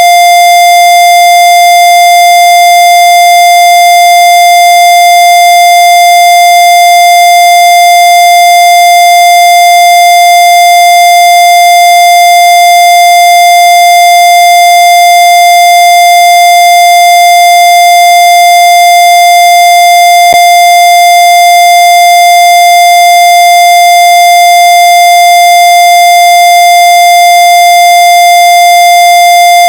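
Loud, harsh electronic tone held at one unchanging pitch throughout, with a faint click about twenty seconds in.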